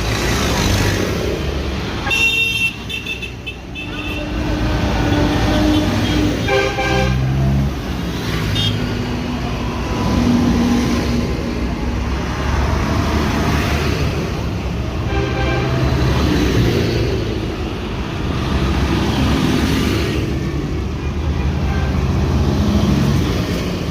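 Convoy of heavy vehicles (tractors and trucks) rumbling past, with horns tooting several times over the engine noise, the clearest blasts a couple of seconds in, around seven seconds and around fifteen seconds.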